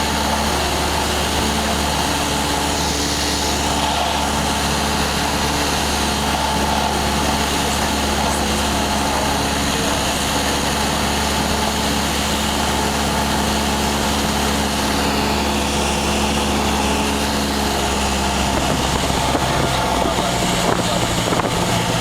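Small propeller airplane's piston engine and propeller droning steadily, its pitch dropping slightly near the end.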